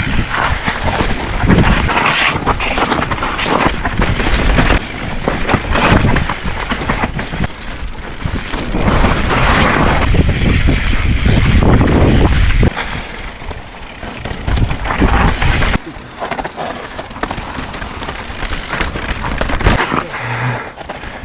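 Mountain bike riding down a rocky trail as heard from a helmet or bike-mounted GoPro: wind rumbling on the microphone over the rattle and knocks of the tyres and frame on rocks and roots. It gets quieter about two-thirds of the way through.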